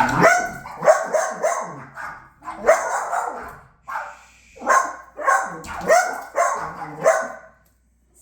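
Pet dog barking in a string of short barks, roughly one or two a second.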